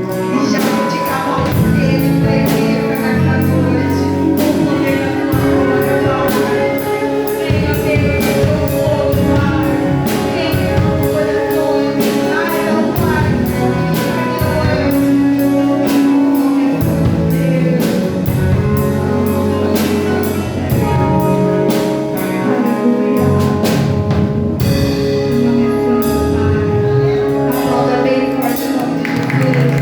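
Live gospel worship music: a singer over a band, with a steady beat of drum and cymbal hits.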